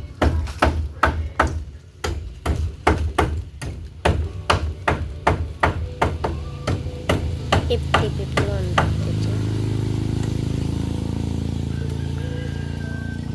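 Hammer blows struck in quick succession, two to three a second, with a short ring after each. They stop about nine seconds in, and a steady low hum carries on.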